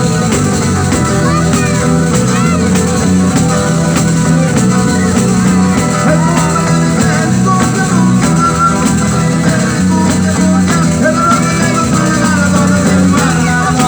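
Live pizzica, the folk dance music of Salento in southern Italy, played continuously by an ensemble.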